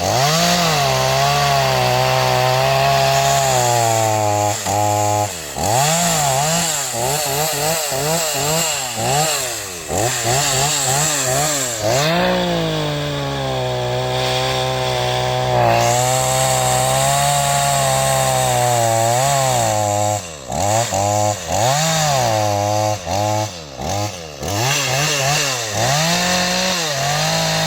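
Gasoline two-stroke chainsaw running, its engine speed rising and falling again and again as the throttle is blipped and released, with a few brief drops in loudness about two-thirds of the way through.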